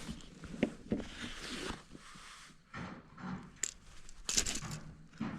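Close handling noises: scattered small clicks and rustles as a white bass is worked free of a crankbait's treble hooks, with a louder cluster of clicks near the end.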